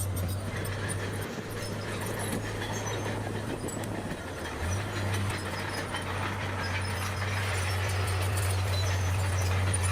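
Bulldozer's diesel engine running with a steady low drone, its note shifting about halfway through, and a faint clatter from the tracks over it.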